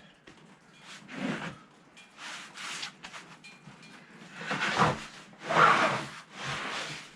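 Freshly sawn boards being handled: a series of irregular scraping, sliding rubs of wood on wood, the loudest about five to six seconds in.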